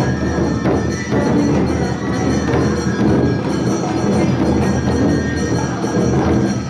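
Live Awa Odori festival music from a narimono band of drums, small hand-held gongs and flutes, playing its steady two-beat rhythm.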